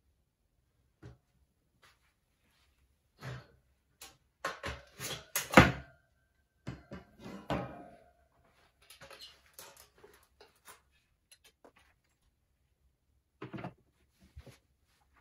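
Stainless steel tray parts handled during assembly: a string of irregular knocks and clicks, with the loudest knock about five and a half seconds in.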